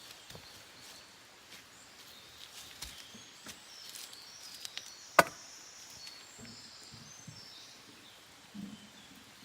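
Wood campfire crackling, with scattered small snaps and one sharp, loud pop about five seconds in. Faint birdsong behind it.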